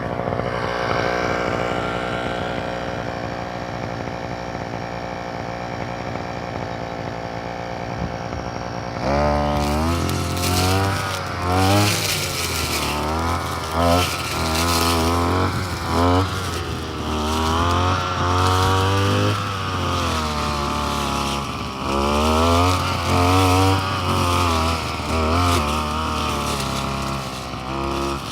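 Brush cutter engine running steadily at idle, then from about nine seconds in revved up and down again and again as the throttle is opened and released.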